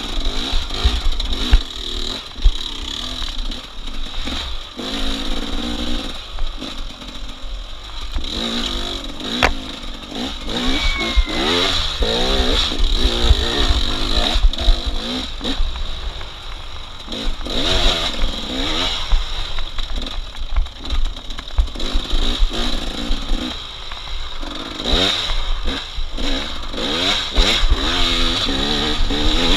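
Dirt bike engine revving up and down over and over, its pitch climbing and dropping as the rider accelerates and backs off.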